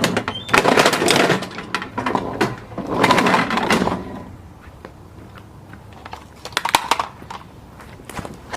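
Lawnmower blade chewing up pieces of a plastic toy, a crunching, rattling clatter in two spells, the second shorter, over the faint steady run of the mower engine.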